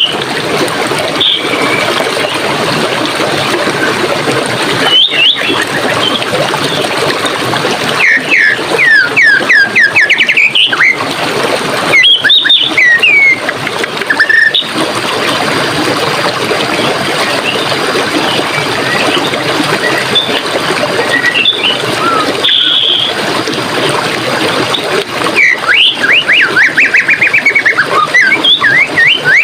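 Running stream water, a steady rushing flow, with songbirds singing over it: quick trilled phrases about eight and twelve seconds in, and a longer rapid trill near the end.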